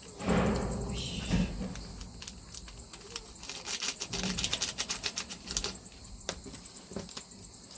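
Paper packets of baking powder being torn open and emptied: a tearing rustle with a knock near the start, then a quick run of light taps and rustles as the powder is shaken out, over a steady high hiss.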